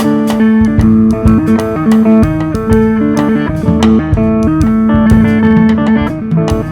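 Twelve-string guitar picking over a steady held low note, with drums and percussion striking throughout.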